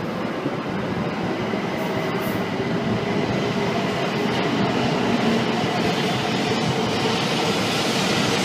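Shinkansen train running along the platform, a steady rumble with faint whining tones that grows gradually louder.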